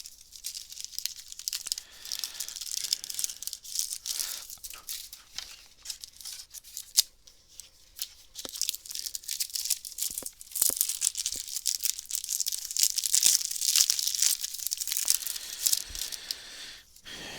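Card-game booster pack wrapper being torn open and crinkled, with a steady crackling full of small clicks that grows busier about ten seconds in.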